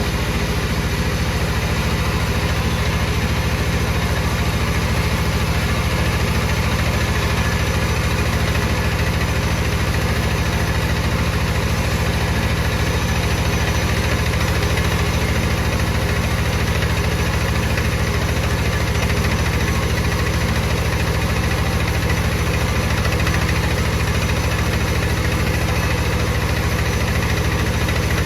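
Wood-cutting saw machinery running with a steady, unchanging low drone.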